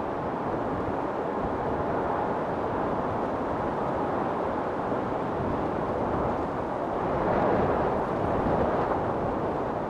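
Wind storm blowing steadily, with a gust swelling about seven seconds in.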